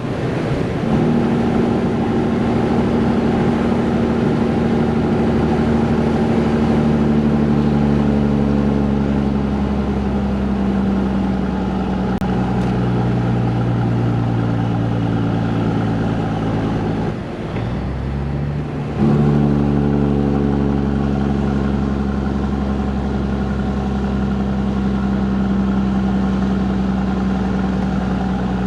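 Peterbilt 362 cabover truck's diesel engine pulling steadily, its revs slowly sagging. About two-thirds of the way through, the sound briefly drops for a gear change. Then the engine picks up at higher revs and again slowly sags.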